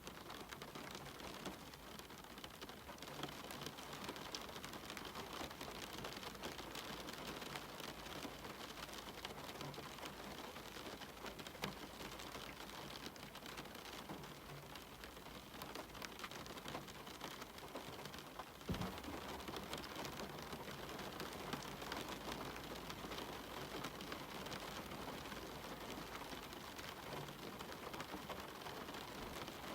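Steady rain with a dense patter of individual drops striking surfaces. One brief click about two-thirds of the way through, where the low rumble underneath shifts.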